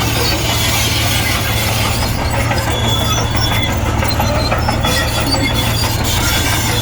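Komatsu D58E crawler bulldozer working, its diesel engine running steadily under a dense metallic clatter and squeal of the steel tracks.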